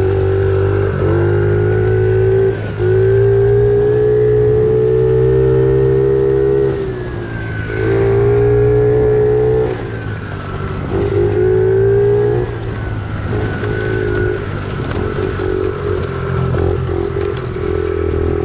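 Small pit bike engine ridden on a trail, pulled through four or so bursts of throttle with short let-offs between them, its pitch rising and falling. In the second half it runs on at lighter, steadier throttle.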